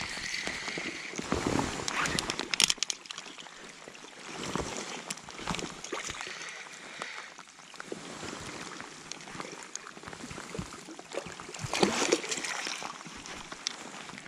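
Water sloshing and splashing, with irregular knocks and rustles and louder bursts about two and a half seconds in and again near twelve seconds.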